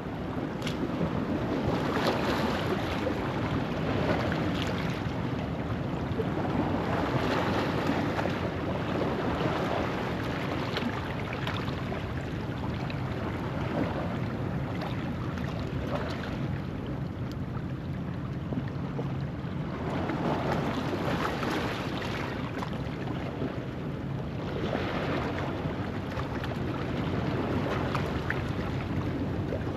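Ocean waves washing in over a rocky shoreline at low tide: a steady rush of surf that swells louder every few seconds as each wave breaks and surges over the rocks.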